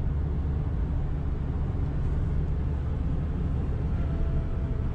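Steady low rumble of a car in motion, with engine and road noise, and a faint steady tone coming in near the end.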